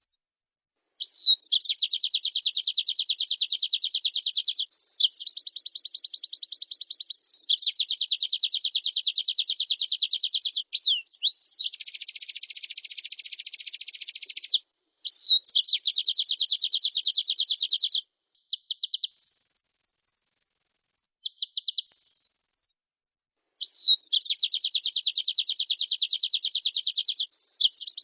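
White-eye (pleci) singing long, fast, high-pitched trills of a few seconds each, with short pauses between them. About two-thirds of the way through comes a brief, still higher phrase.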